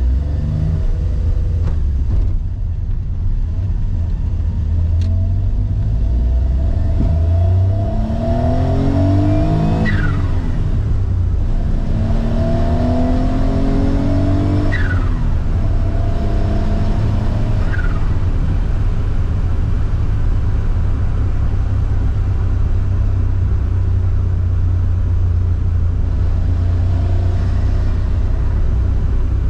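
Mazda Autozam AZ-1's small turbocharged three-cylinder engine heard from inside the cabin, accelerating through the gears: the engine note climbs and then drops at gear changes about ten, fifteen and eighteen seconds in. After that it settles into a steady cruise with road noise.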